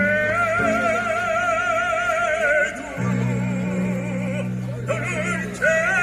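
Classical (operatic) singer holding long notes with wide vibrato over an instrumental accompaniment. The voice moves up a step partway through and breaks off near the end, and deeper accompaniment notes come in about halfway.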